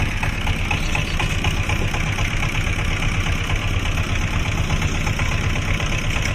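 Small fishing boat's engine running steadily at a low, even speed.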